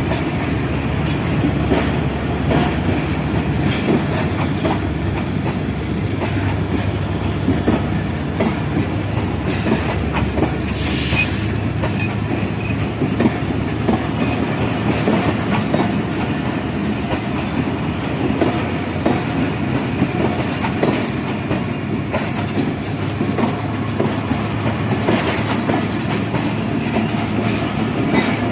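Train running on the track, its wheels clacking steadily over the rail joints under a continuous rumble, with a brief hiss about eleven seconds in.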